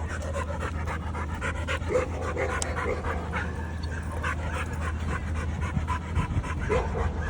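Dog panting in quick, rapid breaths, over a steady low hum.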